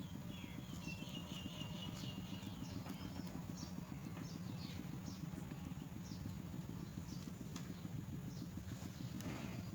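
Young myna birds making short, falling begging calls, a few each second, with a wavering trill in the first few seconds, over a steady low hum.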